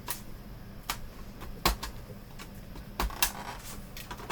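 A few sharp, irregularly spaced clicks and taps of plastic parts being handled and worked loose while a computer monitor's frame is taken apart.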